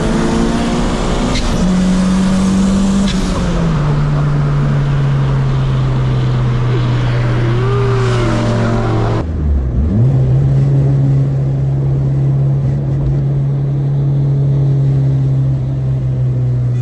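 Turbocharged Honda Civic Si engine heard from inside the cabin, running hard and steady at highway speed. Its pitch steps down once about three seconds in. About nine seconds in, a loud rushing noise cuts out and the engine note briefly dips and comes back, then holds steady.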